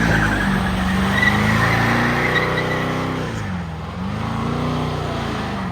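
A V8 car spinning its rear tires in a burnout: the engine revs up and down in repeated waves over a steady tire squeal.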